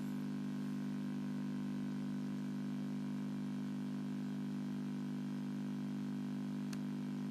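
Steady low electrical hum from the recording equipment, several even tones over a faint hiss, with one short faint click near the end.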